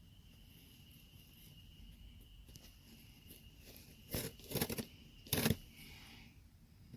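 A product package being cut and torn open: a few short rasping rips about four seconds in and another one about a second later.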